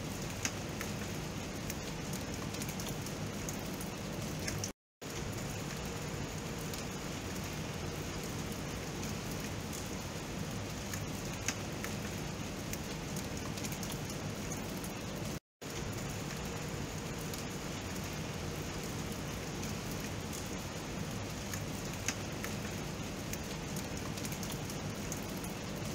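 Steady rain falling, an even hiss with scattered sharp drip ticks. The sound cuts out completely for a split second twice, about five seconds in and again about fifteen seconds in.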